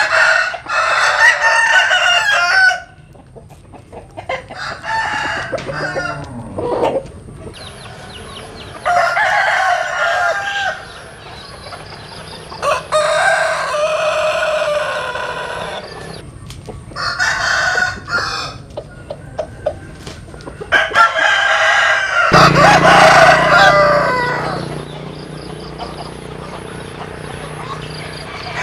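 Roosters crowing one after another, about six long crows of one to three seconds each, with chicken clucking in the gaps between them.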